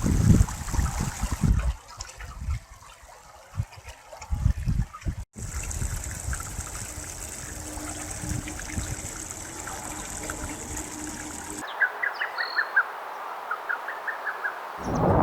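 Hot spring water trickling and flowing, cut together from several short clips, with a small bird chirping twice in quick runs of short notes near the end.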